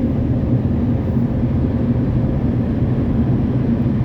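Automatic car wash air dryer blowers running with a steady, loud roar, heard from inside the car's cabin.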